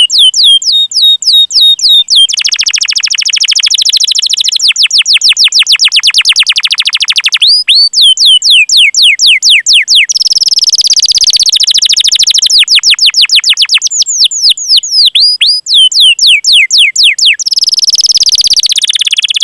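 Domestic canary singing: series of sharp, downward-sweeping high 'cuit cuit' chirps alternating with long, very fast rolling trills ('ngerol'), used as a training song for young canaries.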